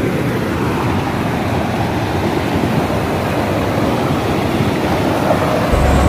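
Panimur waterfall's white water rushing steadily over sandstone ledges and between boulders. A low rumble comes in near the end.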